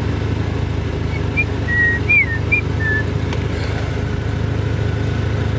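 Steady low hum of a car's engine heard inside the cabin. About a second in, several short high whistle-like chirps, one rising and falling, sound over it for about two seconds.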